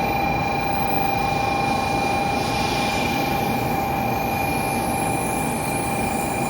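KiHa 185 series diesel train running: a steady rumble with a constant high whine over it.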